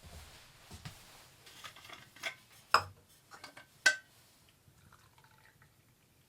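Light knocks and clinks of cookware being handled. Two sharper clinks, about a second apart, ring briefly.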